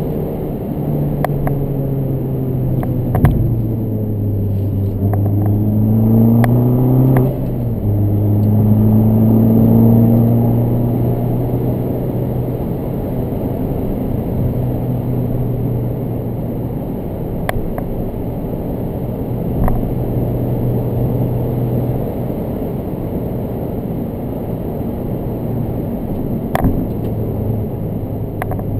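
Fiat 500 Abarth's 1.4-litre turbocharged four-cylinder engine heard from inside the cabin while driving hard. The engine note rises under acceleration, drops sharply at a gear change about seven seconds in, then climbs again before settling to a steadier run, with a few sharp knocks along the way.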